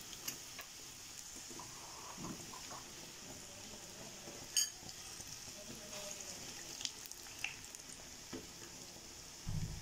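Gram-flour-battered bread slices shallow-frying in hot oil: a steady, faint sizzle, with metal tongs clicking against the pan now and then, the sharpest click about halfway through. A short dull thump comes near the end.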